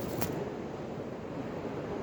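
Wind blowing over the microphone, a steady rushing noise, with one short click about a quarter second in.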